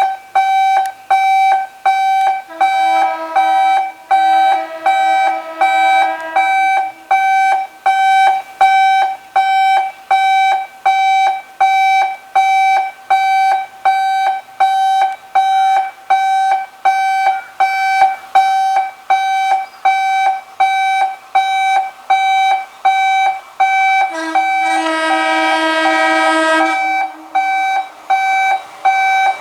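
An electric warning alarm beeping in an even rhythm, a little more than one beep a second, typical of a railway level-crossing warning. A lower sustained horn-like tone sounds over it twice, a few seconds in and again near the end.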